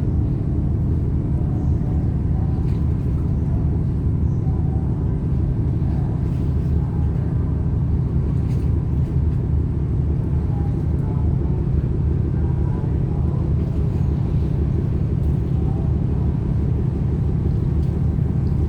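Steady low rumble of a ro-ro ferry's engines running during berthing, unbroken and even in level.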